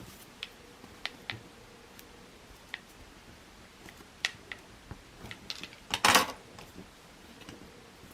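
Paper and cardstock being handled and pressed together while gluing: scattered light clicks and taps, with a louder brief rustle about six seconds in.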